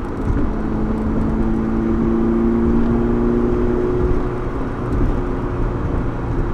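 Ferrari 308's V8 engine running while the car is driven, its engine still not warmed up. The engine note rises slightly, then eases off about four seconds in, over a steady low rumble.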